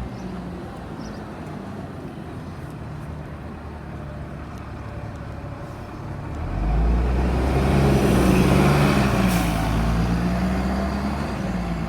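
Diesel bus engine running close by, growing much louder about six and a half seconds in as it passes, with a brief air hiss near its loudest.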